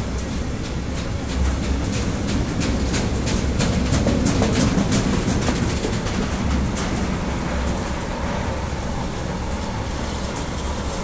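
Container freight train's wagons rolling past: a steady rumble of steel wheels on the rails with rapid clicking, loudest about four seconds in.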